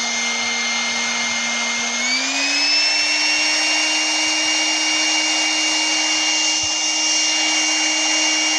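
Small high-speed electric motor spinning a fan, a steady whine over a strong rush of air; its pitch rises about two seconds in and then holds.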